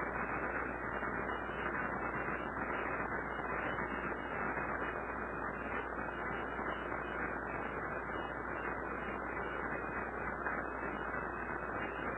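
Steady rushing noise with a low hum underneath, without any distinct events.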